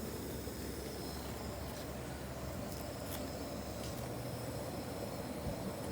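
Steady outdoor rushing noise with a few faint ticks about halfway through.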